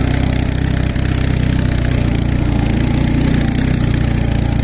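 Ural motorcycle's flat-twin engine running steadily, with a slight rise in revs about halfway through.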